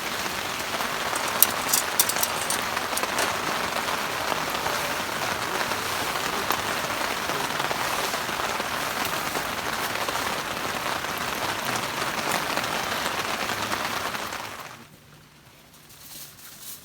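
Steady heavy rain falling, with a few sharp clicks about two seconds in. The rain sound drops away abruptly near the end, leaving a much fainter background.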